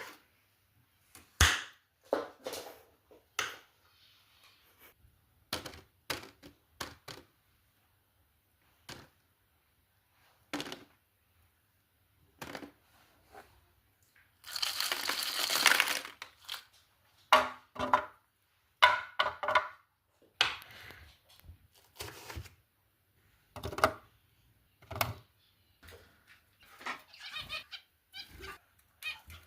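Food-preparation handling noises: scattered knocks, clicks and cracks of things being handled on a counter, with one noisy rush lasting about a second and a half a little past halfway.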